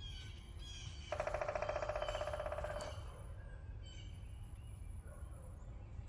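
Outdoor birdsong: a few high chirps, then about a second in a loud, rapid trill lasting about two seconds, over a low steady background rumble.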